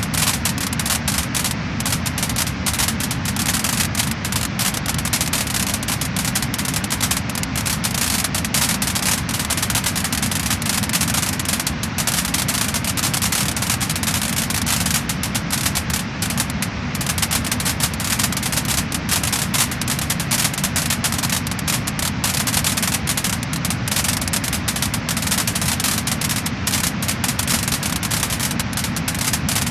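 Wood-burning fire crackling and popping, with dense rapid crackles over a constant hiss.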